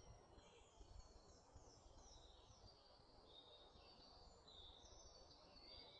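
Faint woodland birdsong: several birds singing at once in a chorus of short chirps and falling phrases, over a low steady background rumble.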